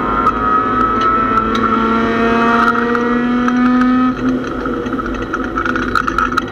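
Mazda MX-6 race car's engine heard from inside the stripped cabin, its pitch climbing steadily under acceleration for about four seconds, then dropping suddenly and running on at lower revs. Sharp clicks from the cabin come and go throughout.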